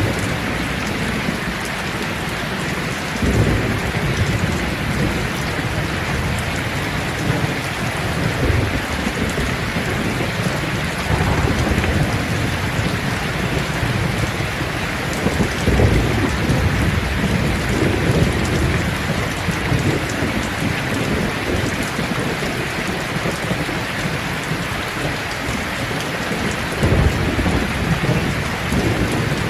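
Steady heavy rain pattering on leaves, a dense even hiss, with low rumbles of thunder swelling up several times.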